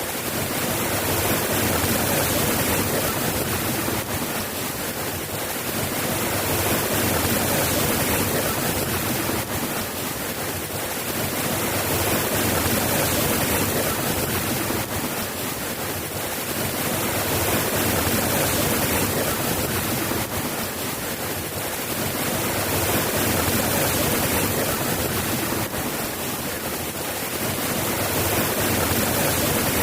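Steady rain falling, an even hiss that slowly swells and eases every five or six seconds.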